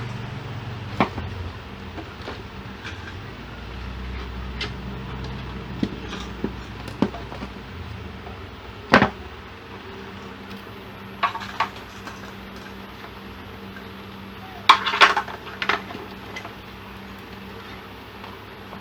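Scattered clicks, clinks and knocks of tools and small hard parts being handled during electronics repair work, with a sharp knock about nine seconds in and a quick cluster of clatters near fifteen seconds. A steady low hum runs underneath, its deepest part dropping away about nine seconds in.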